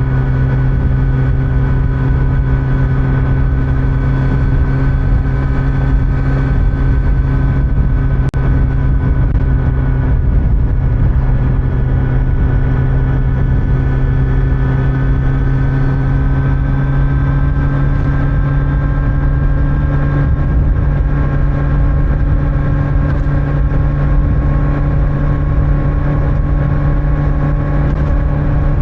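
Kawasaki Z900's inline-four engine running at a steady cruising speed through its stock exhaust, with wind and road noise underneath; the engine note creeps slightly higher in the second half.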